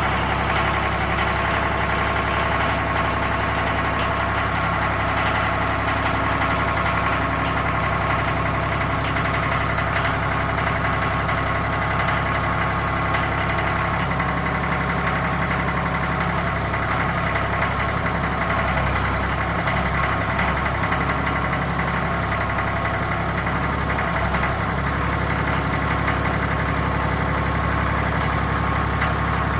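Ford 771 tractor engine running steadily at idle.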